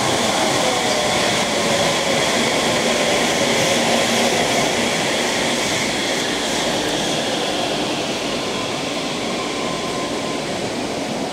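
Yurikamome rubber-tyred automated guideway train running in along the platform and slowing to stop. A steady rumble carries a high whine, with lower tones falling in pitch, and it eases off slightly toward the end.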